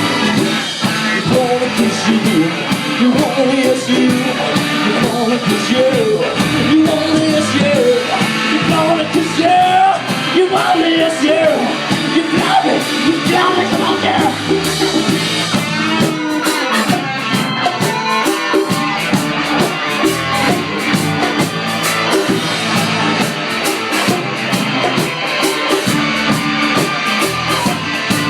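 Live rock band playing a song, with singing over guitar and drums, recorded from the crowd.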